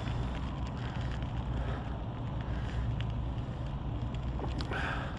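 Wind buffeting the microphone while riding a bicycle: a steady low rumble with a light hiss above it, and a few faint clicks near the end.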